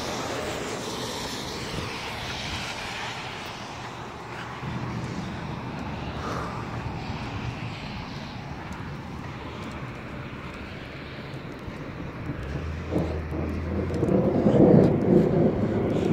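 Thunder rumbling, swelling to its loudest in the last few seconds as it breaks close overhead.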